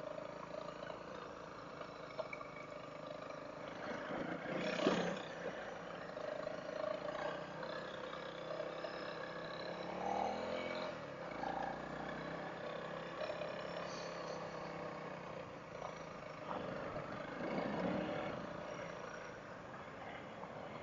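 Single-cylinder dual-sport motorcycle engine running on a dirt trail, heard faintly and muffled through a helmet intercom microphone, with the revs swelling a few times.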